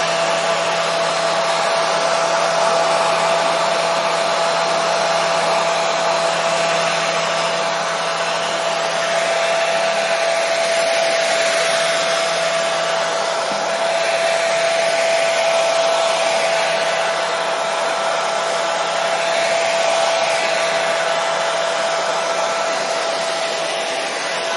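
Hair dryer running steadily on one setting: an even rush of blown air with a steady motor hum, used as white noise.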